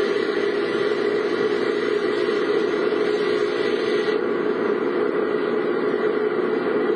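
Steady in-car noise of a vehicle's engine running, an even hum with no change in pitch or level.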